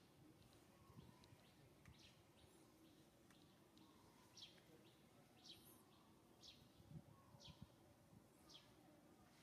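Faint background with a bird giving short, high, falling chirps about once a second, clearest in the second half.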